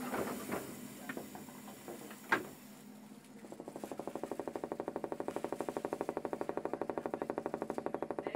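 Hakone Tozan Railway 2000 series electric train: a few scattered clicks, one sharp click about two seconds in, then a fast, steady rattling pulse of about ten beats a second that starts a few seconds in and keeps going.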